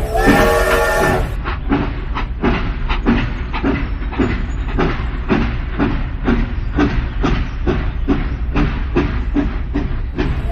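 Train horn sounding a chord for about a second, then the train's steady rhythmic chugging, about four beats a second.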